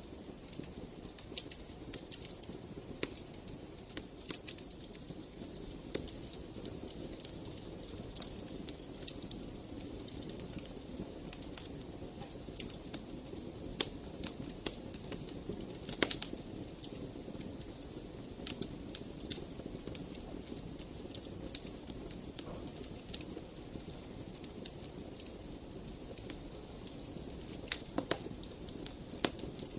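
Wood fire burning in a fireplace: a steady low rush of flames with frequent sharp crackles and pops, a couple of them louder about halfway through and near the end.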